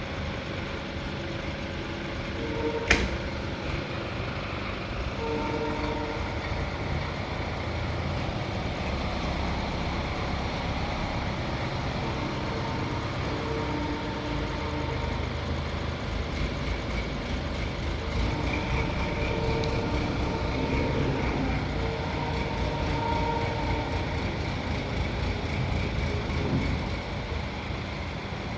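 Heavy engine running steadily with a low rumble, while horn-like tones sound on and off over it. A single sharp crack comes about three seconds in.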